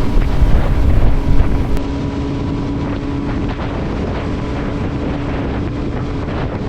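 Motorcycle engine running at cruising speed with heavy wind rumble on the microphone while riding; the wind buffeting is strongest for the first two seconds, then settles to a steady engine drone and road noise.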